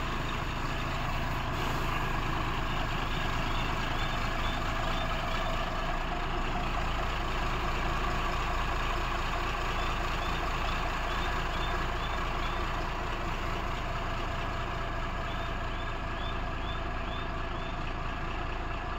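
Tata truck's diesel engine idling steadily, left running in the cold rather than shut off. Faint short high chirps repeat a couple of times a second in stretches over the engine.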